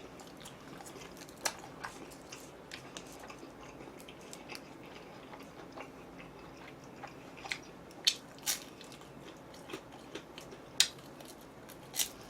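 A person chewing food close to the microphone, with scattered short crunches, a few sharper ones in the second half.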